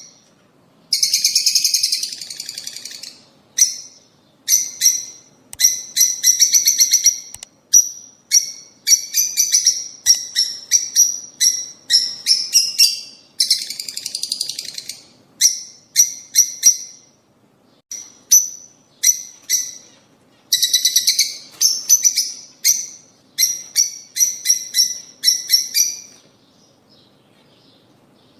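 Lovebirds chirping: bursts of rapid, high-pitched chirps in quick trains, one after another, dying away a couple of seconds before the end.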